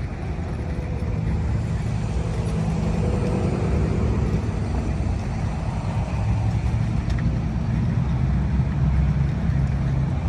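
Hot rod and classic car engines running in street traffic, a steady low exhaust rumble that shifts a little in pitch.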